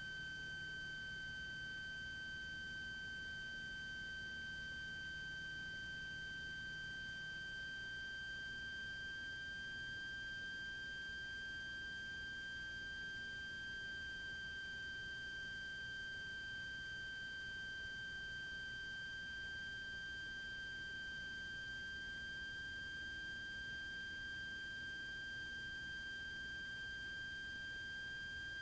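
A steady, unchanging high-pitched electronic tone with fainter overtones, and no engine noise behind it: a whine carried on the recorded cockpit audio feed.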